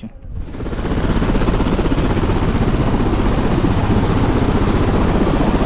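Helicopter running close by: a loud, steady wash of rotor and engine noise with a low hum, coming up suddenly in the first second.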